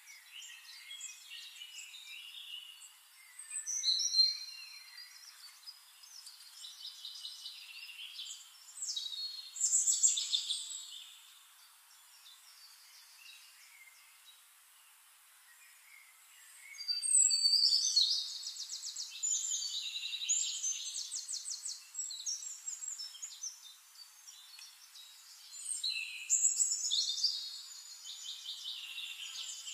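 Birds chirping and singing in several bursts of short chirps and fast trills, with a quieter lull about halfway through, over a faint steady hiss.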